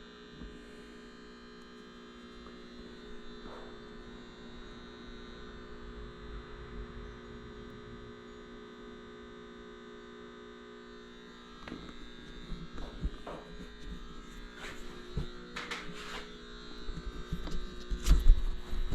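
Power inverter running off a 12-volt battery, giving a steady electrical hum made of several tones. From about the middle come scattered clicks and handling knocks, louder near the end.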